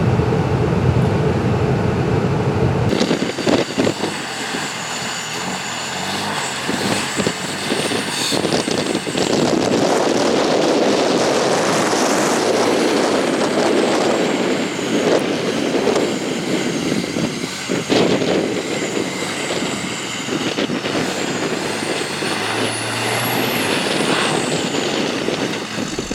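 Diesel pickup truck engine running under load during a tow out of deep snow. The sound changes abruptly about three seconds in, and after that a high whine rises and falls several times.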